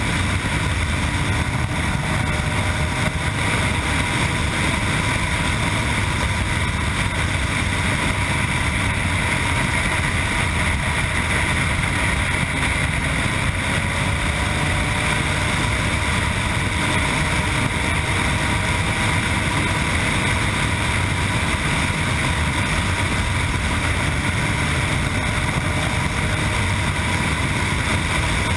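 Yamaha MT-09's three-cylinder engine through an Akrapovic exhaust, recorded on board while riding at a fairly steady pace, with only slight, slow rises and falls in pitch.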